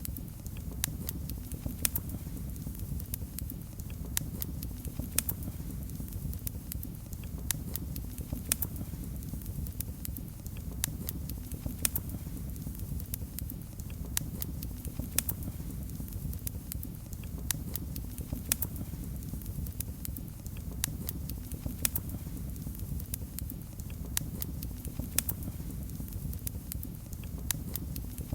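Wood fire in a fireplace crackling: sharp, irregular pops and snaps, several a second, over a steady low rumble of the flames.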